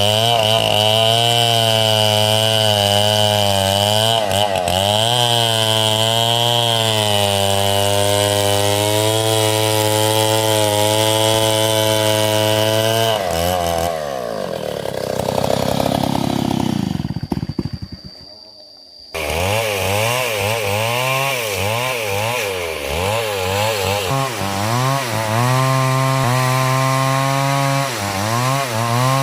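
Stihl MS 070 two-stroke chainsaw cutting through hard coconut wood, its engine pitch dipping and recovering over and over as the chain bites under load. About halfway through, the engine winds down and goes much quieter for a few seconds, then is abruptly back at full cutting speed.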